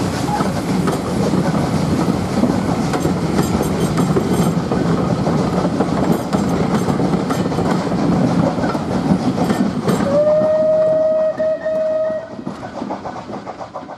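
Steam-hauled passenger coaches rumbling and clicking over the rail joints as they pass close by. About ten seconds in, a steam locomotive's whistle sounds once, one steady note for about two seconds, and then the train's noise fades as the last coach goes by.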